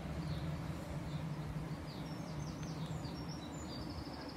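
Small birds chirping, a quick series of short high notes from about halfway in, over a steady low background hum.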